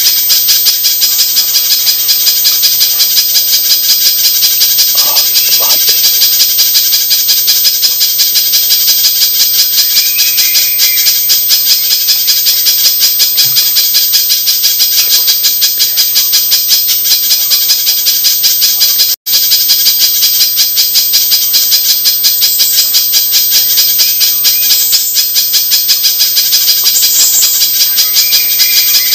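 Spiderhunter calling: a loud, fast, unbroken run of sharp high chips, many to the second. The sound cuts out for an instant about nineteen seconds in.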